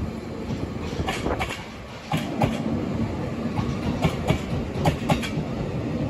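JR Hokkaido 721 series electric train pulling out past the platform: a steady rumble with the wheels clacking over the rail joints, often in quick pairs, getting louder about two seconds in.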